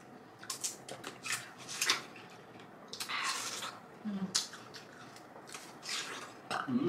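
Close-up eating sounds of juicy watermelon: irregular wet smacks, crisp bites and slurps, with a longer wet slurp about three seconds in.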